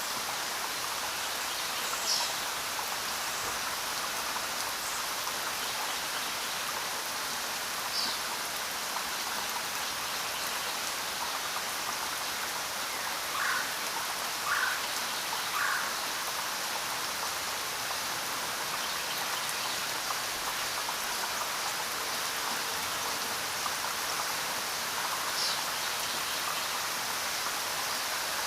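Steady rain falling in a forest, an even hiss of drops on leaves and ground. A few short high calls stand out over it, three of them in a row about half a second to a second apart about halfway through.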